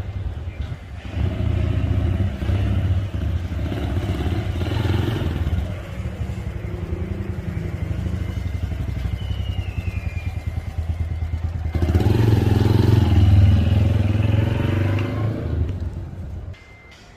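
A motor running loudly with a low hum. It swells about a second in and again around twelve seconds in, then drops away near the end.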